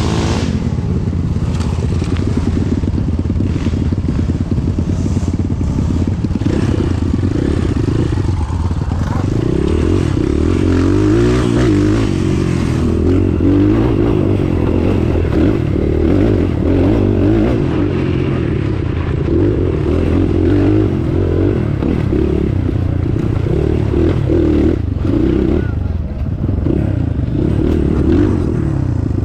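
Off-road vehicle engine revving up and down repeatedly as it works over a rough trail, with clattering and scraping throughout.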